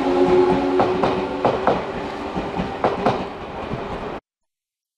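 Odakyu 1000 series electric train rolling past a platform: a steady motor hum and wheels clacking over rail joints in pairs, fading as the last car goes by. The sound cuts off abruptly about four seconds in.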